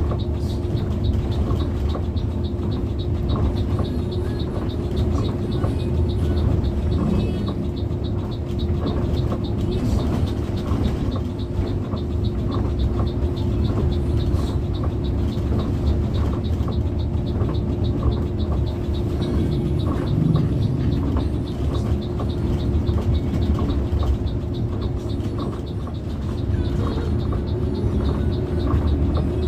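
Steady engine and road rumble heard from inside a moving Pelita Paradep bus, with a constant hum at one pitch and faint light ticks over it.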